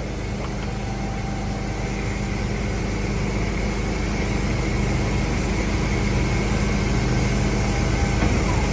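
Heavy engine running steadily with a low, even hum, slowly growing louder.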